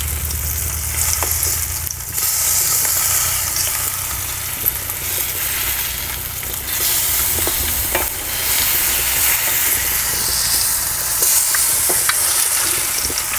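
Masala-coated boiled egg slices sizzling in hot oil in a frying pan. A wooden spatula scrapes and taps against the pan now and then as the slices are turned over.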